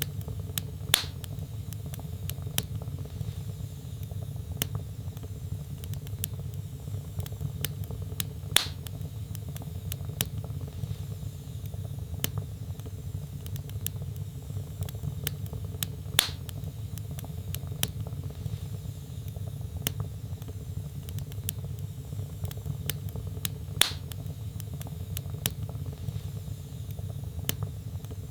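Log fire crackling in a fireplace: many small sharp clicks over a steady low rumble, with four louder pops spaced about seven and a half seconds apart.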